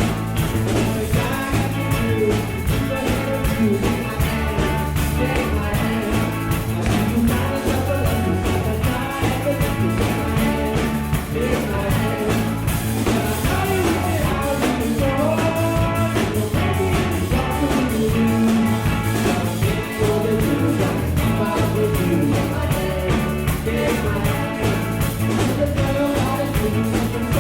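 Live rock band playing an instrumental passage with a steady beat: accordion, guitar, bass guitar and drums.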